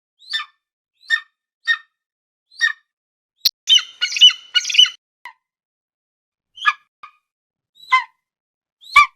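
An eagle calling: a series of short, high, chirping calls spaced about half a second to a second apart. About three and a half seconds in comes a quick run of harsher, denser squawking notes, then the calls go on more sparsely.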